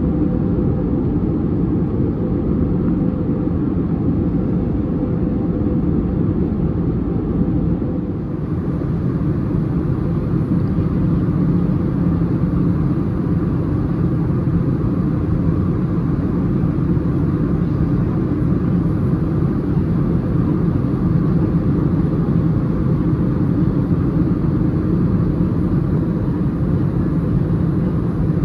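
Steady cabin drone of an Airbus A320neo in cruise: engine and airflow noise heard from a window seat, with a slight shift in tone about eight seconds in.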